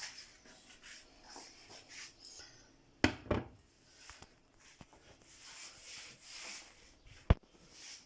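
Kitchen handling noises: a pair of knocks about three seconds in, stretches of rubbing or scraping, and a sharp click a little after seven seconds.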